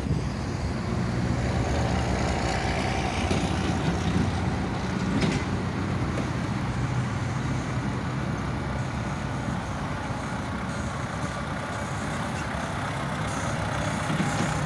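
Ford tractor engine running steadily while the tractor works its levelling bucket, with a brief knock about five seconds in.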